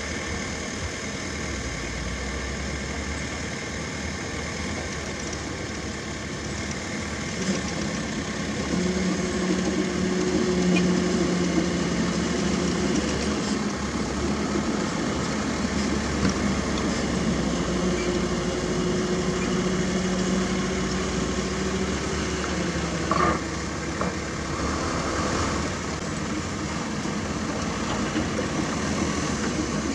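Heavy diesel construction machinery running steadily. From about nine seconds in, an engine works harder with a louder, steady drone that eases off around twenty-two seconds. A short metallic clank comes about twenty-three seconds in.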